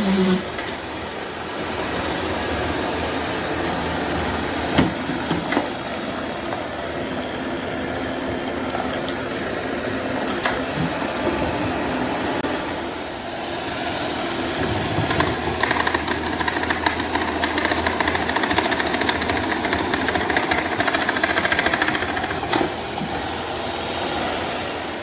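Robot vacuum running: a steady motor and suction noise with a few clicks, getting louder and brighter from about halfway through.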